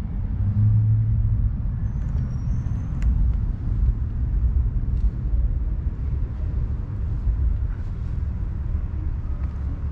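Jaguar XK120's twin-cam straight-six engine idling with a steady low rumble.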